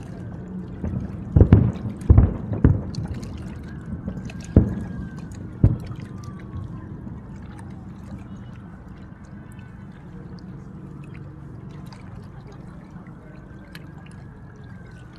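Distant fireworks booming over the river: five sharp bangs in the first six seconds, then a steady low rumble with faint falling whistles.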